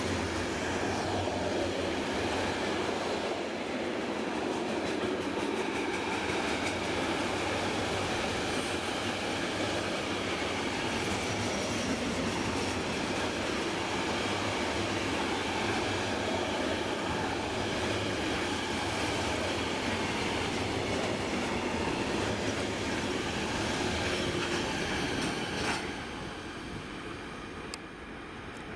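A freight train's loaded container wagons rolling past on the next track: a steady noise of wheels running on the rails that drops in level near the end.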